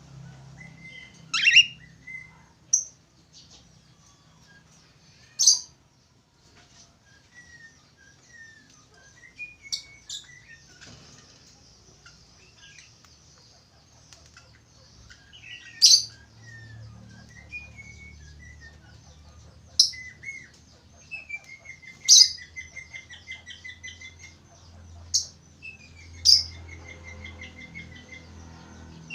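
Budgerigar warbling and chattering, broken every few seconds by loud, sharp chirps, with quick trilled calls in the second half.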